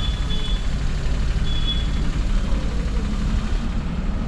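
Maruti Suzuki Alto car's engine running, a steady low rumble.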